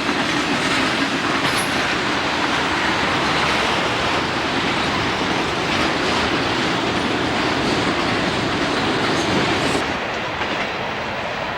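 A train rolling past, its car wheels running over the rails in a steady loud rush of noise with faint irregular clicks; the noise drops a little near the end.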